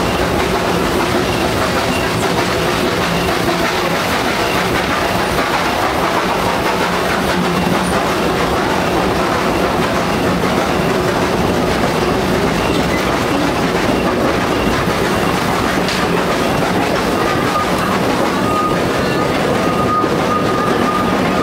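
Small theme-park passenger train running, heard from an open-sided carriage: a steady rumble with wheels clattering over the rail joints. A thin, steady high squeal, typical of wheel flanges on a curve, joins near the end.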